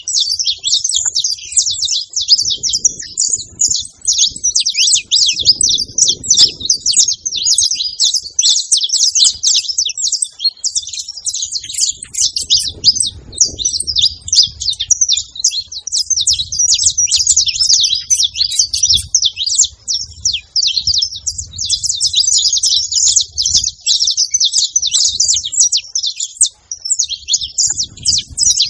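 Saffron finch singing: a long, near-continuous run of rapid high chirps and trills, with only brief breaks.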